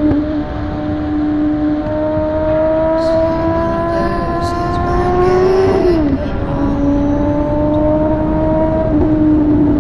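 Yamaha motorcycle engine pulling under way, its note slowly rising, then dropping sharply about six seconds in as it shifts up a gear and climbing again, over a steady rushing noise.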